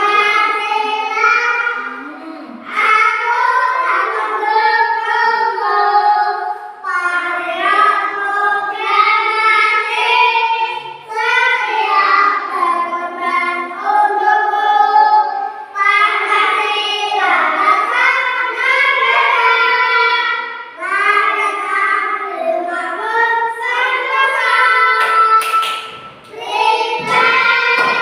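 A group of children singing a song together in phrases a few seconds long, with short breaks between them and a few light knocks near the end.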